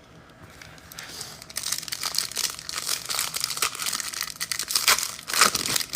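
Foil wrapper of a football trading card pack crinkling and tearing as it is ripped open, a dense run of crackling from about a second in, loudest just before the end.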